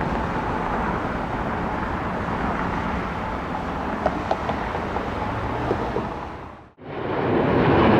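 Steady jet engine noise of a departing airliner. About six and a half seconds in it fades to a brief dropout, then louder jet noise comes straight back in.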